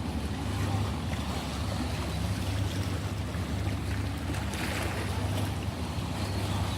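Ocean waves washing, one surging a little louder about halfway through, over a steady low hum.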